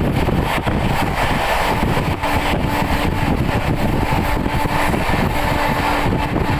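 Passenger express train running steadily, heard from on board: a continuous rumble of wheels on the track with a faint hum that comes and goes.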